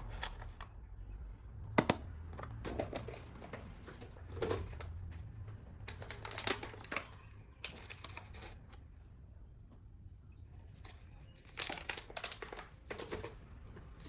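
Kitchen handling sounds: irregular crinkling and rustling with sharp clicks, the sharpest about two seconds in, over a low steady hum.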